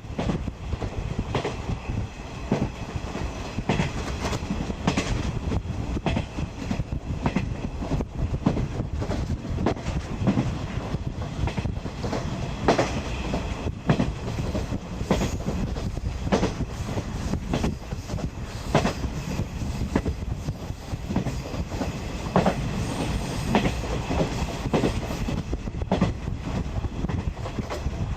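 Locomotive-hauled 50-series passenger coach running along the line, heard from inside the carriage: a steady rolling rumble with the wheels clicking over rail joints again and again.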